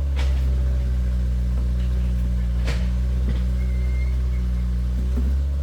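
Excavator's diesel engine running steadily at an even speed, with two sharp clicks, one just after the start and one about halfway through.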